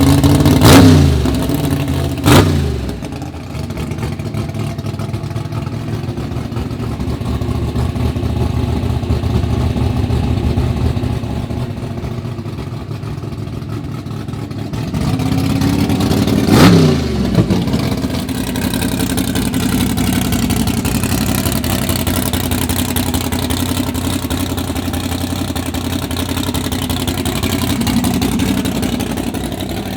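Car engines running with a steady rumble, with two loud surges, about a second in and about halfway through, each falling away in pitch as a car passes close by.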